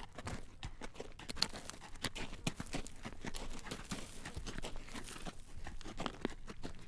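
A horse's hooves clip-clopping on a road at a walk as it draws a carriage: a continuous run of sharp clacking strikes, several a second.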